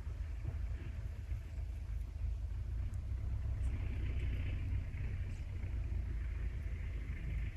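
Outdoor lakeside ambience: a steady low rumble under a soft hiss that swells about three seconds in, then eases off.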